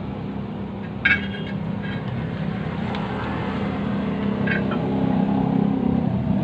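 An engine running steadily, a little louder in the second half, with a few short metallic clinks, the loudest about a second in.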